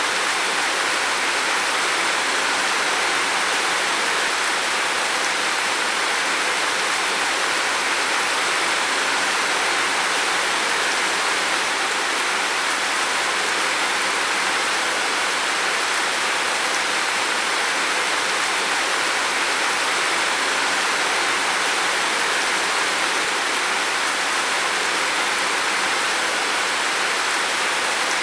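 Heavy rain falling steadily on a roof, a constant even hiss of water.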